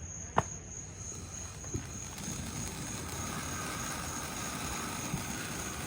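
Consumer firework fountain burning: a sharp crack, then a steady rushing spray that builds about two seconds in.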